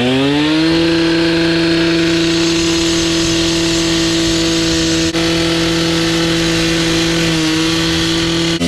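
An engine revs up in the first second, holds a steady high speed, and drops back right at the end.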